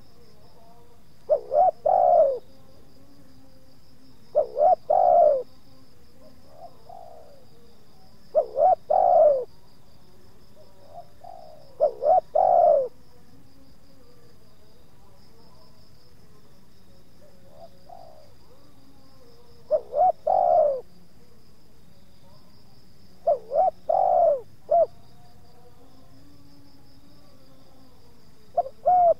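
Spotted doves cooing: a close bird gives repeated phrases of two or three short notes every three to four seconds, with a pause of about six seconds in the middle, and fainter coos come in between. A steady high insect buzz runs underneath.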